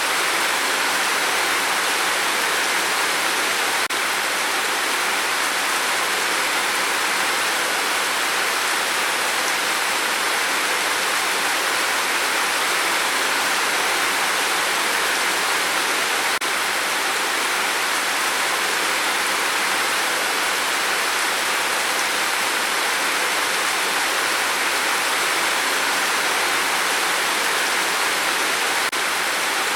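Rain falling steadily on a tin roof, a dense, even hiss that does not change.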